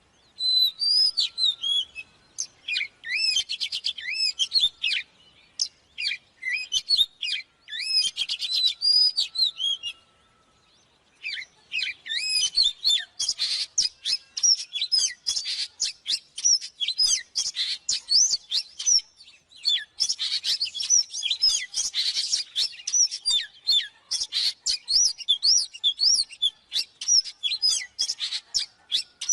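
Oriental magpie-robin singing: rapid runs of clear whistled notes sweeping up and down in pitch. Short phrases with brief gaps give way, after a pause about a third of the way in, to a long dense stretch of song.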